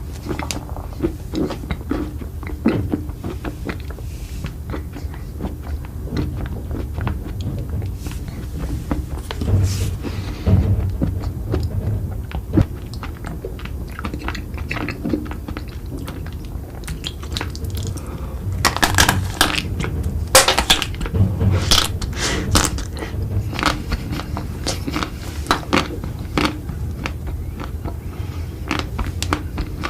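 Close-miked eating: steady chewing, with crunchy bites and crackles. A louder run of sharp crunches comes about two-thirds of the way through.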